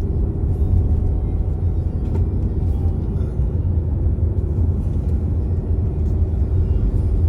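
Car driving, with a steady low road rumble and a faint steady hum.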